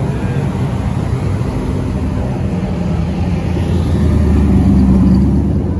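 Loud car engine rumbling, growing louder about four seconds in before easing off.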